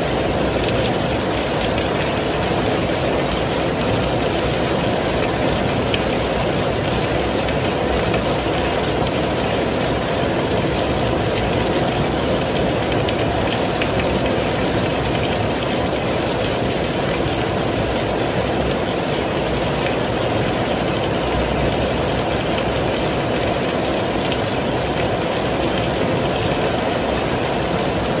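Heavy rain falling steadily, an even dense hiss and rumble with no breaks or single drops standing out.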